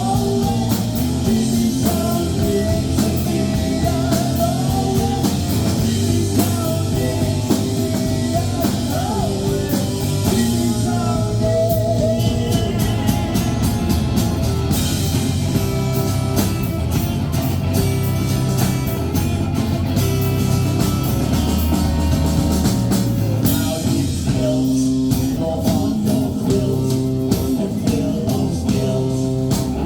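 Rock band playing live: a singer over electric guitar, bass and drums.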